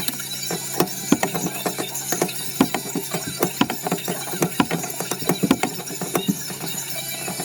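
Rapid, irregular mechanical clicking, several clicks a second, from hand-tool work on the tankless water heater's fittings.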